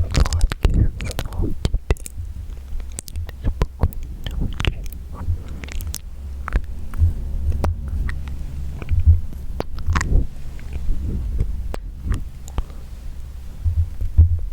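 Wet mouth sounds close to the microphone: irregular clicks, smacks and tongue pops over a low rumble.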